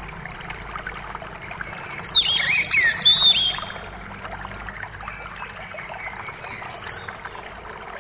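Birds singing over the steady rush of a forest creek. About two seconds in comes a loud burst of rapid chirps and downward-sliding whistles, followed by thin high whistles, one of them loud near the end.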